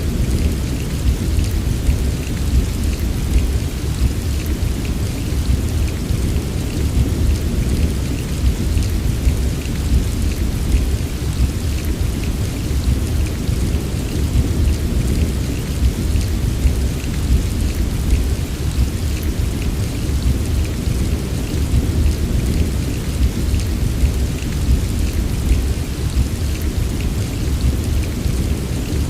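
Steady heavy rain, a dense even patter of drops over a continuous low rumble, with no separate thunderclap standing out.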